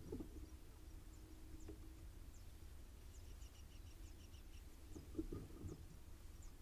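Faint background ambience: a steady low hum, a run of short, faint high chirps in the middle, and a few soft low knocks near the start and about five seconds in.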